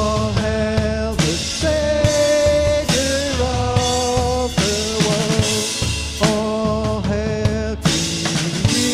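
Worship band music: a drum kit keeping a steady beat under a voice singing long held notes that change every second or so.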